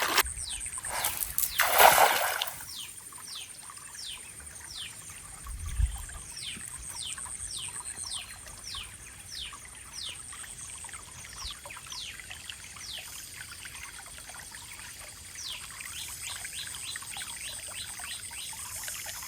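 A bird calling in a long series of short, falling whistled notes, one or two a second, over a steady high insect drone. About two seconds in there is a loud splash of water.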